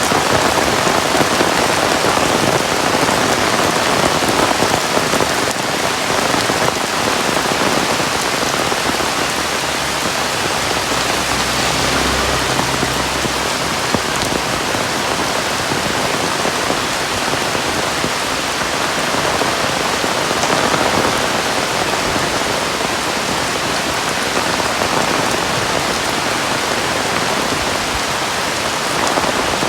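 Heavy rain falling steadily and hard, a dense even hiss of drops on surfaces. A low rumble swells briefly about halfway through.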